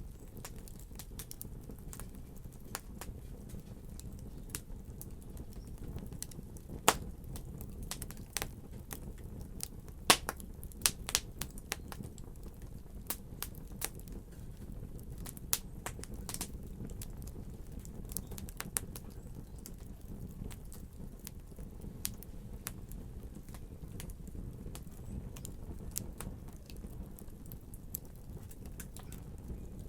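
Wood fire crackling: a steady low rumble of flames with irregular sharp pops and snaps, a few louder ones near the middle.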